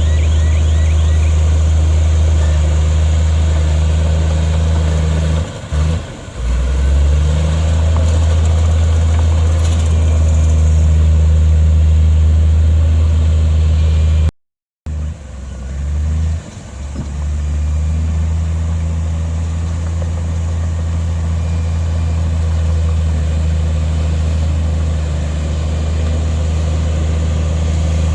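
Bulldozer's heavy diesel engine running steadily under load, with a brief drop in engine sound twice. The sound breaks off for a moment about halfway through.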